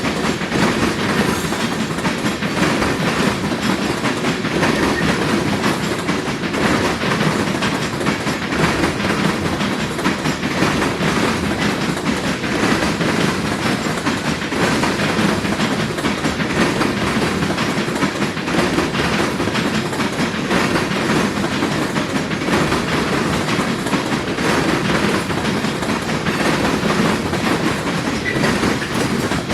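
Freight train cars rolling across a railroad diamond crossing, the wheels clacking steadily over the crossing's rail gaps.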